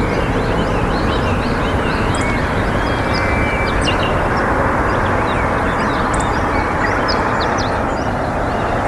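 Many small birds chirping in quick, short calls over a loud, steady rushing noise.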